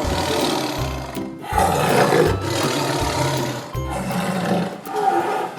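Tiger roaring over a children's music backing, with the roar loudest a little under two seconds in.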